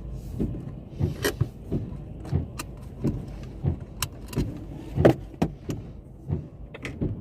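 A car driving, heard from inside the cabin: a steady low rumble with irregular short knocks and clicks, about two a second.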